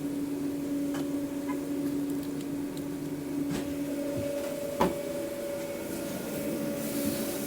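Steady machine hum with a few light clicks and one sharp knock nearly five seconds in.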